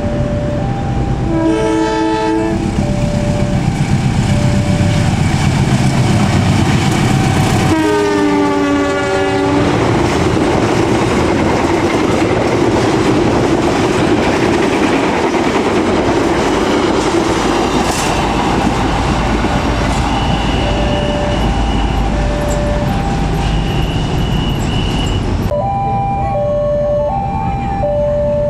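A passing train's locomotive sounds its horn twice, the second blast falling in pitch as it goes by. A long train then rushes through with steady rumble and clattering wheels, cutting off suddenly about 25 seconds in. Before and after the train, a level-crossing alarm chimes in two alternating tones.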